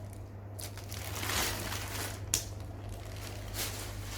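Grocery packaging crinkling and rustling as items are handled, with a sharp tap a little over two seconds in.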